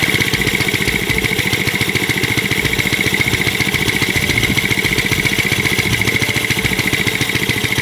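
Small homemade four-stroke engine converted from a refrigerator compressor, running steadily with rapid, even firing pulses and a steady high whine over them.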